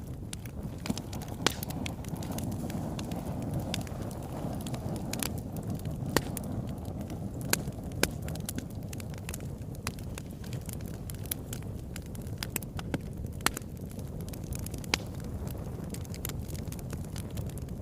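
Wood fire burning in a fireplace: a steady low rumble of flames with irregular crackles and pops, about half a dozen of them sharper, louder snaps.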